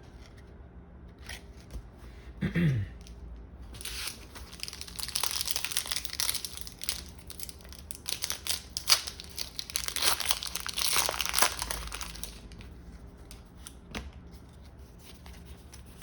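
Foil Pokémon booster pack wrapper being torn open and crinkled, a dense crackling that runs for about eight seconds from about four seconds in. A short falling tone is heard about two and a half seconds in, and light clicks of card handling follow.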